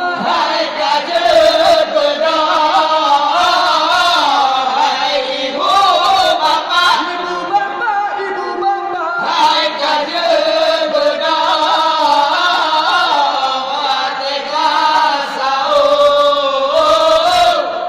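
A young man's voice singing a melodic, ornamented chant in long gliding phrases: a sung call waking people for sahur, the pre-dawn meal of Ramadan.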